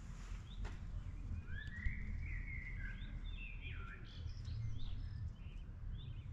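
Songbirds chirping and singing, with a longer warbled phrase about two seconds in, over a low steady rumble.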